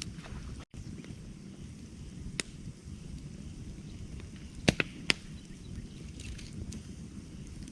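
Wood campfire crackling: a steady low rush of burning with a few sharp pops, one at about two and a half seconds in and a quick cluster of three near the middle.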